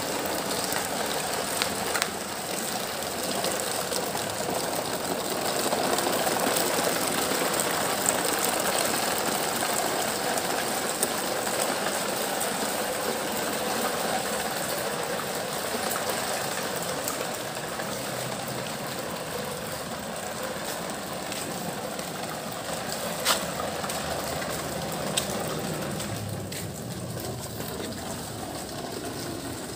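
Toy cement-mixer truck and excavators running: a steady mechanical whirring rattle with a few sharp plastic clicks.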